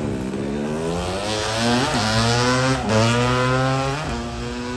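Dirt bike engine revving: its pitch climbs, drops back sharply twice, then holds steady near the end.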